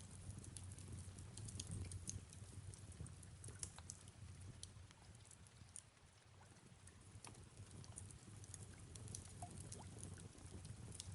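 Fireplace crackling with soft rain falling: scattered small pops and snaps over a low steady rumble and a faint hiss.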